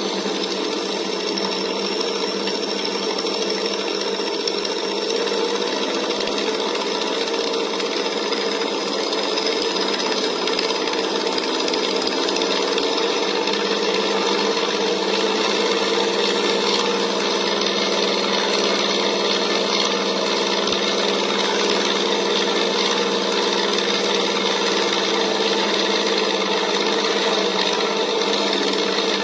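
Sense Innovations ESS Air sound system playing a simulated radial engine through its speaker as the throttle is run up: a steady engine note that climbs in pitch and gets a little louder about ten to fifteen seconds in, holds high, then starts to drop near the end.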